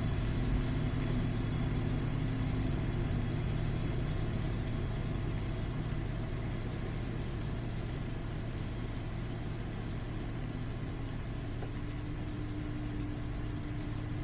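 Steady rushing airflow noise and low drone inside a glider's cockpit in flight, easing slightly, with a faint held tone near the start and another near the end.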